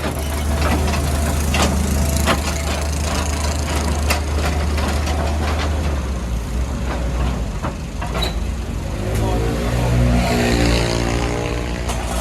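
Heavy diesel engine running steadily, with scattered knocks and clatter. From about nine seconds in, an engine tone rises and falls.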